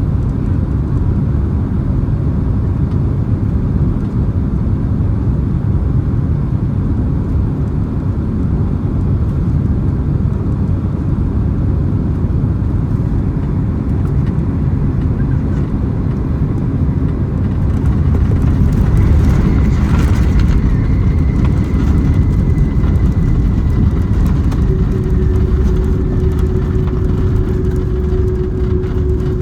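Steady engine and airflow rumble of a Boeing 767-300ER heard from inside the passenger cabin. It swells slightly about two-thirds of the way through, and a faint steady whine comes in near the end.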